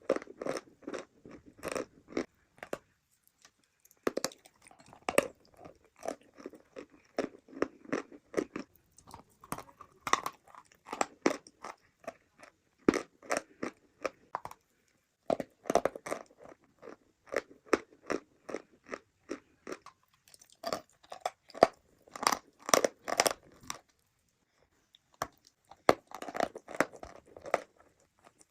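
Chunks of edible chalk and clay being bitten and chewed close to the microphone: runs of crisp, rapid crunches in bursts, broken by short pauses.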